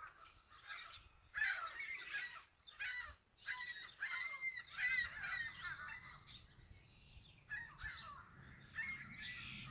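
A flock of gulls calling as they circle overhead: many faint, overlapping short calls, with a brief lull about seven seconds in.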